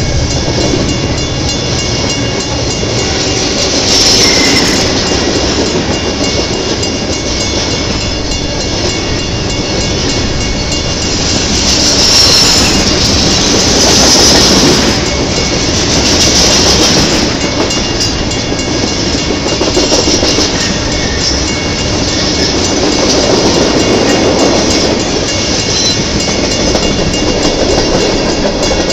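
Union Pacific rail-train flatcars loaded with long strings of welded rail rolling past: a steady rumble and clatter of steel wheels on the track, with high wheel squeal rising a few times, loudest around the middle.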